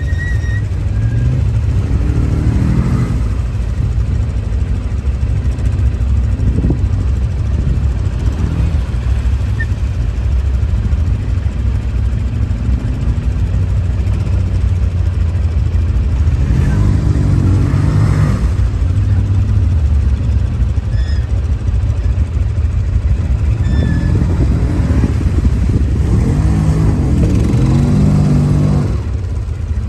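ATV engine running under way with a steady low drone, revving up in the middle and again near the end.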